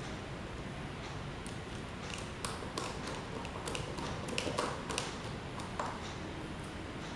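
A run of light taps and clicks, about a dozen, bunched in the middle, as of tools or small hard parts being handled and set down, over a steady low hiss.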